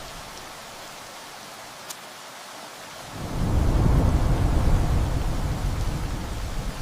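Steady rain with a roll of thunder that builds about three seconds in, rumbles low and heavy for a couple of seconds, then slowly dies away.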